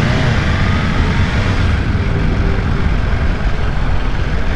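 BMW S1000RR M Edition's inline-four running at speed under a steady rush of riding wind on the microphone, a constant low roar with no gaps.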